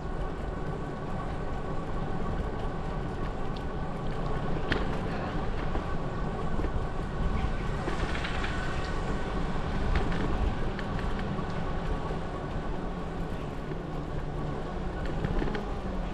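Steady rumble of wind and tyre noise from riding a bicycle, with a few sharp clicks and rattles now and then.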